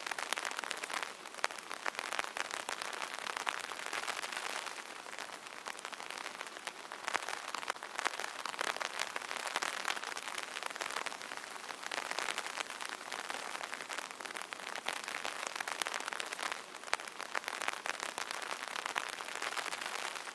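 Steady light rain pattering on an umbrella's fabric canopy: a dense spray of small drop ticks that swells and eases a little every few seconds.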